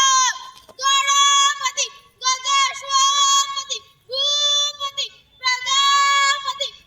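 A child's high voice singing long held notes, about four phrases of a second or so each with short breaks between, the pitch steady and bending slightly at the ends.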